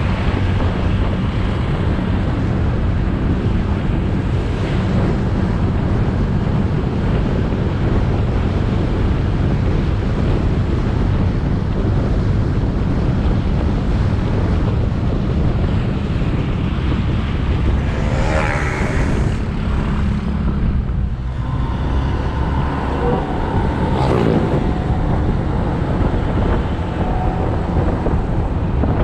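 Motorbike engine running steadily while riding, under heavy wind noise on the microphone, with road traffic around it. A brief louder rush comes about eighteen seconds in.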